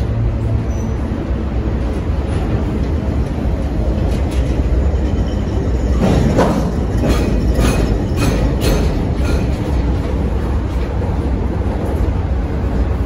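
CSX freight train's boxcars rolling past close by: a steady, loud low rumble of steel wheels on rail, with a run of sharp clicks and clanks from about six to nine seconds in.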